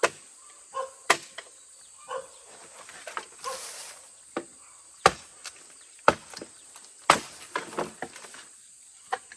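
Irregular sharp chopping strikes, like a blade cutting into wood or stalks. Five hard strokes stand out, with lighter taps between them.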